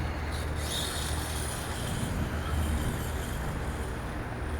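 A 1/5-scale electric Redcat monster truck running, with a steady drivetrain and tyre noise over a low hum. There are no knocks; the freshly repaired differential crown gears run without the cracking noise they had made.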